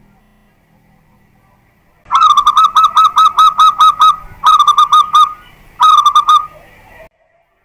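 Zebra dove (perkutut) singing: a fast run of about ten short repeated coos, then two shorter runs, the sound cutting off suddenly near the end.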